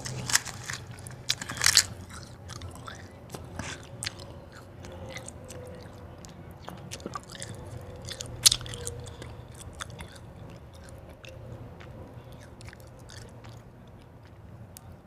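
White ice being bitten and crunched between the teeth close to the microphone. Sharp cracking bites come in the first two seconds and one loud crunch about eight and a half seconds in, with softer chewing crackle in between.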